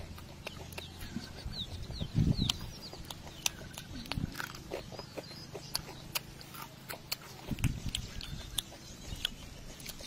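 Crunching and chewing of crispy deep-fried battered small fish, heard close up: a run of sharp crackling crunches with soft, wet mouth sounds between them.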